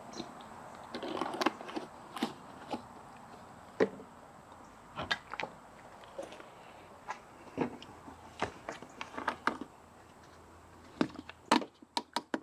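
Irregular sharp clicks and knocks of plastic motor-oil bottles and caps being handled while fresh oil is added to the engine, with a quick cluster near the end.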